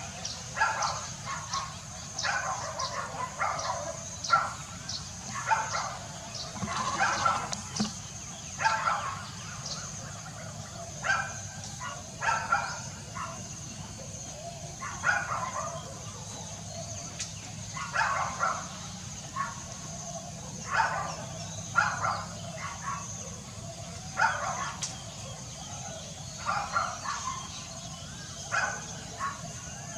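African grey parrot giving short, sharp calls over and over, one every second or two, some in quick pairs.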